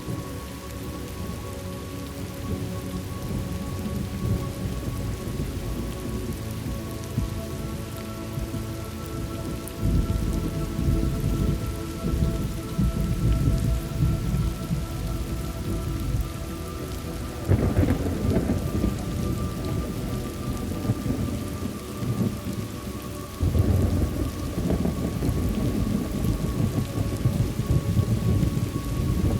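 Thunderstorm ambience: steady rain with rolling thunder that builds about ten seconds in. A sharper thunderclap comes a little past halfway, and another loud roll of thunder follows several seconds later.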